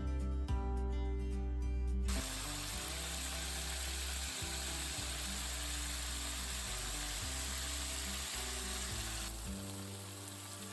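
Background music, joined about two seconds in by a steady sizzle of food frying in a hot stir-fry pan; the sizzle's high hiss fades about nine seconds in while the music continues.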